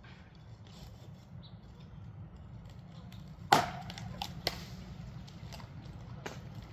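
A sharp wooden knock about halfway through, followed by a few lighter knocks, over a low steady rumble.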